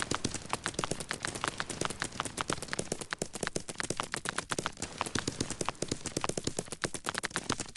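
Rapid, irregular sharp clicks or taps, many a second, keeping a steady level throughout.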